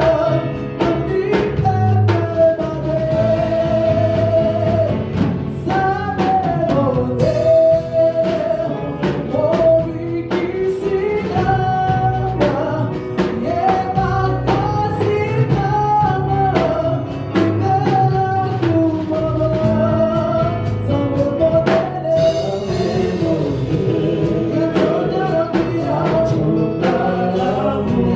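Live gospel worship music: a sung melody with band accompaniment and a steady drum beat.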